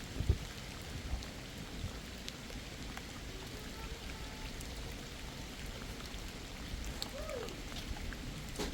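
Heavy rain falling steadily, with scattered drops tapping, and a low thump just after the start.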